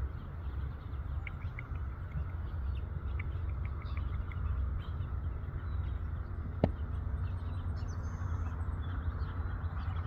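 Open-field ambience: scattered short bird chirps over a steady low rumble, with one sharp click about two-thirds of the way through.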